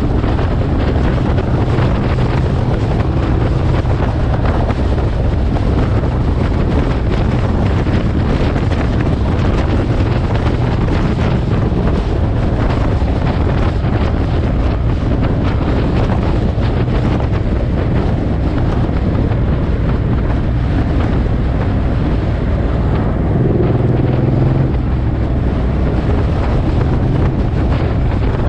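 Suzuki M109R's V-twin engine running at road speed, buried under heavy wind noise on the microphone. The engine note briefly grows stronger about three-quarters of the way through.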